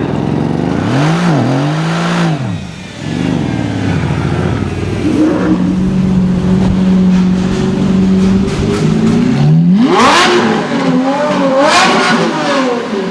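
A supercar engine being revved: two quick blips of the throttle, then revs held steady for a few seconds, then a sharp, high rev about ten seconds in and another shorter one near the end.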